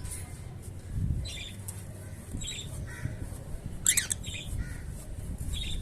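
Lovebirds giving short, sharp squawks and chirps every half second or so, the loudest a quick rising call about four seconds in, over a low rumble.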